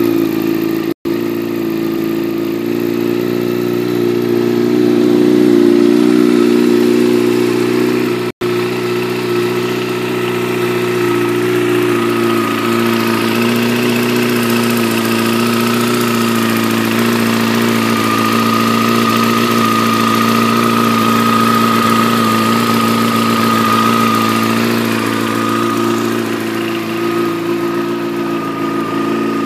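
Yamaha YZF-R6 sport bike's inline-four engine idling steadily after a cold start.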